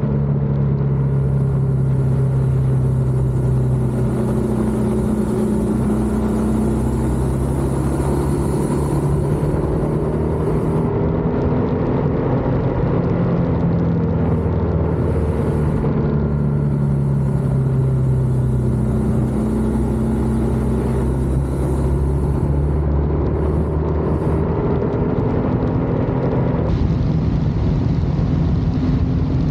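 BMW R1200GS flat-twin boxer engine running at road speed. Its pitch rises and falls gently with the throttle, over a steady rush of wind and road noise.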